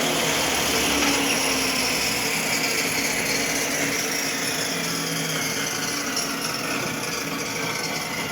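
Table saw running, its sound slowly falling away, with faint pitches gliding downward near the end.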